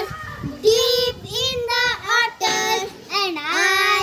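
Young children singing a simple English rhyme, several short sung phrases with brief breaks between them.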